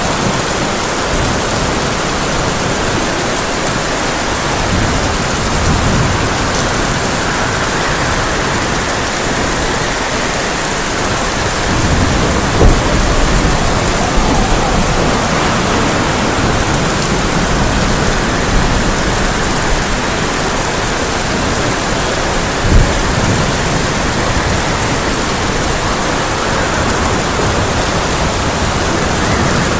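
Heavy rain drumming steadily on a tin roof in a thunderstorm, with low rolls of thunder swelling midway and two sharp cracks, about 13 and 23 seconds in.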